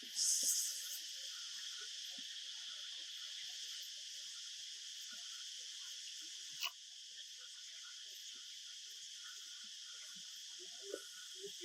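Insects chirring steadily in a faint, even background, with a single sharp click about two-thirds of the way through.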